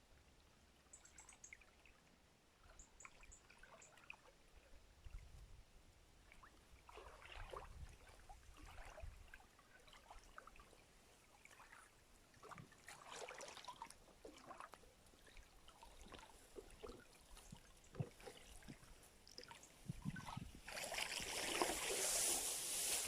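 Shallow stream water trickling and splashing irregularly, growing louder and rushing near the end.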